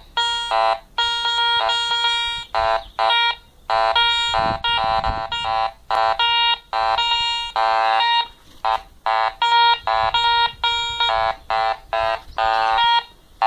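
Garrett Ace 200i metal detector sounding in short, rapid tone bursts as its coil sweeps over iron screws and 20p coins, switching back and forth between a low iron tone and a higher mid tone for the coins.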